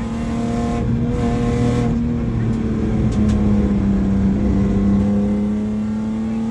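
BMW 328i's straight-six engine pulling hard and steady, heard from inside the car, its note climbing slightly near the end. A few sharp clicks sound about halfway through.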